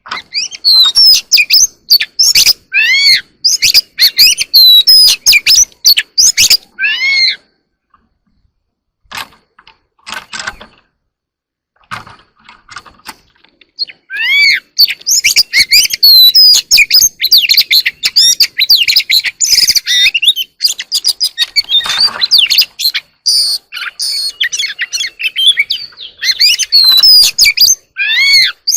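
Oriental magpie-robin singing: rapid varied whistles and glides in loud phrases, with a sparser stretch of a few scattered notes in the middle before the song comes back dense and continuous.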